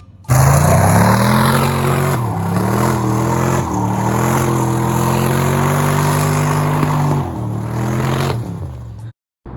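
Motor vehicle engine under acceleration, pitch dropping at about three gear changes. It cuts off abruptly near the end.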